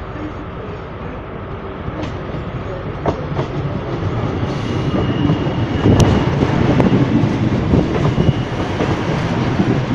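GWR Class 158 diesel multiple unit running in past the platform, its engine and running gear building steadily louder as it approaches. A clatter of wheel clicks over rail joints grows thick from about six seconds in as the coaches pass close by.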